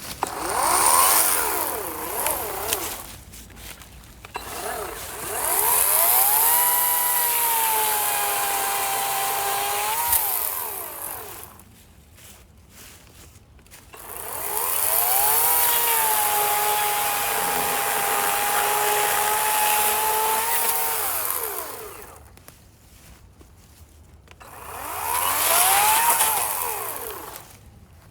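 EGO 56-volt battery chainsaw cutting through a sugar maple log in four separate runs. Each run starts with a rising whine, the pitch sags and holds lower while the chain is in the wood during the two long cuts, then climbs again briefly before the saw is let off, with quiet gaps between runs.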